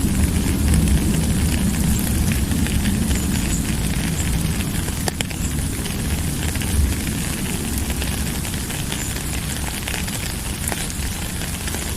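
Steady rain, with a deep low rumble beneath and scattered sharp ticks of drops. The level holds even throughout.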